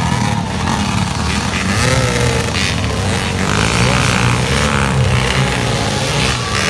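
Dirt bike engines running hard during a motocross race, their pitch rising and falling as the riders work the throttle.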